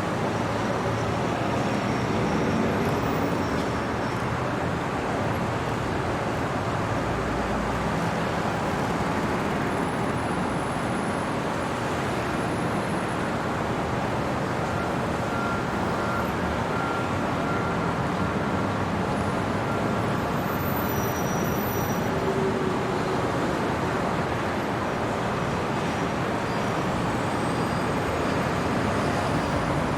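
Steady hum of city traffic, a continuous wash of road noise with no single vehicle standing out.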